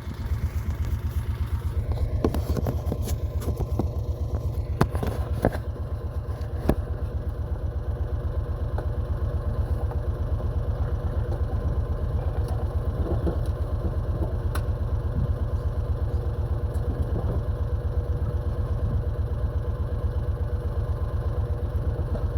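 A vehicle engine running steadily with an even low throb. A few sharp knocks and clatters come in the first several seconds.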